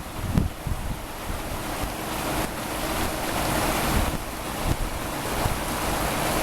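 Swollen river floodwater rushing steadily, swelling louder through the middle, with wind buffeting the microphone.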